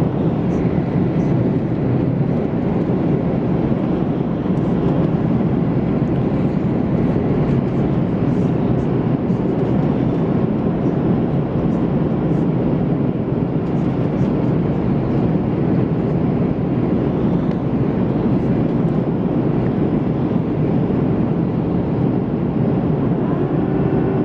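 Steady cabin noise of an Airbus A330-200 airliner in flight, a loud even drone of engines and rushing air, with a few faint ticks or rattles above it.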